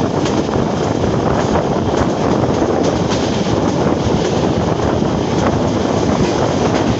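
Wind rushing past the microphone over the steady running noise of a passenger train's wheels on the track, heard from outside the window of a coach moving at speed.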